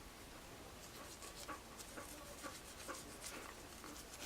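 Faint, irregular scratchy clicks of a toothbrush scrubbing a dog's teeth.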